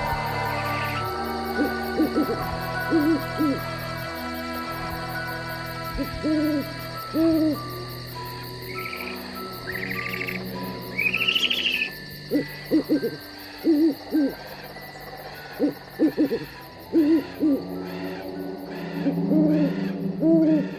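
Owls hooting again and again, in short groups of two or three calls, over a low sustained synthesized drone, with a few higher rising calls near the middle: a night-forest soundscape.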